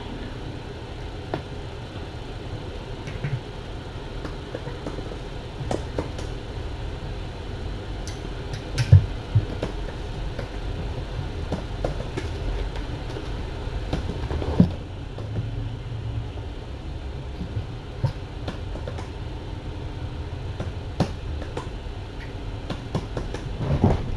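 Steady low room rumble with scattered soft clicks and knocks, two louder knocks about nine and fifteen seconds in.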